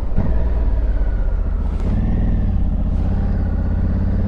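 Honda Africa Twin Adventure Sports' parallel-twin engine running as the motorcycle is ridden along, growing louder about two seconds in as the bike picks up.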